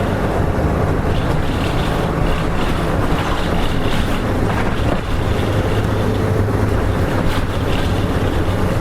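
Hino Rainbow RM (KK-RM252GSN) city bus heard from inside the cabin while driving: a steady diesel engine hum with road and wind noise.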